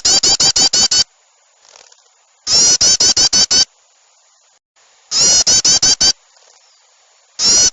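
Bird-lure recording of agitated small birds: bursts of about a second of rapid, high, scolding call notes, about eight notes to a burst, repeating about every two and a half seconds with short hissy gaps between. The last burst begins near the end.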